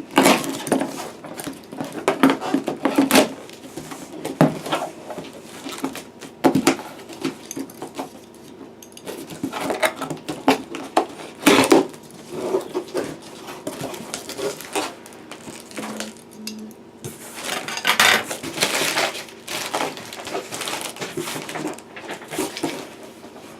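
Cardboard box being opened and its packaging handled: irregular knocks, clicks and rustling, with a longer patch of rustling near the end.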